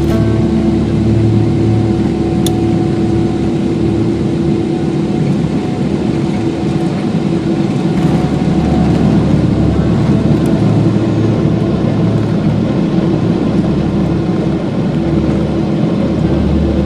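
Steady roar of an airliner's jet engines and airflow, heard from inside the passenger cabin, with a constant low hum.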